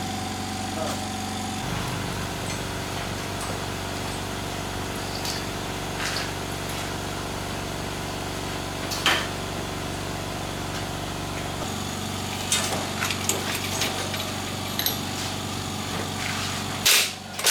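A small engine running steadily, its note shifting slightly a couple of times. A few sharp knocks sound over it, the loudest near the end.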